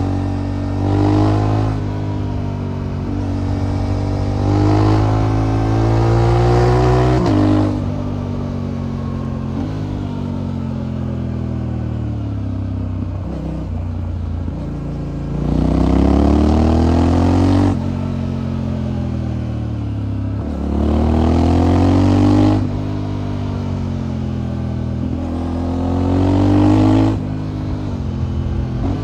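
Motorcycle engine with an aftermarket exhaust, ridden hard: four bursts of acceleration where the pitch climbs and drops sharply at each upshift, about a second in, around seven seconds, sixteen to eighteen, twenty-two and twenty-seven seconds. Between them the revs fall away as the bike rolls off and engine-brakes.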